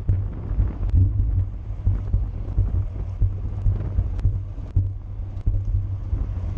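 Wind buffeting the microphone of a camera riding along on a racing bicycle at speed: a steady, gusting low rumble, with a few faint sharp clicks.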